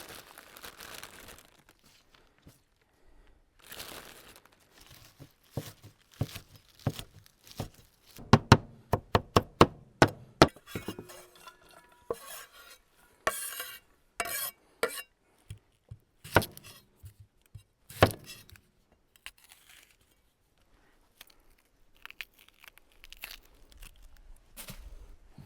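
Salad being made: a knife chopping vegetables on a cutting board, including a quick run of about eight even strokes some eight seconds in, among scattered knocks and clinks of kitchen handling.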